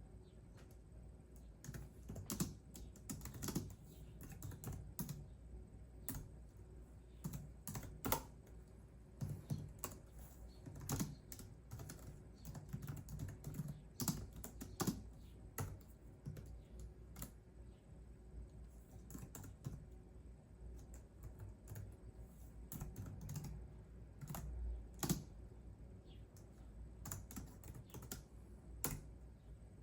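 Computer keyboard typing: irregular runs of quick keystrokes broken by short pauses.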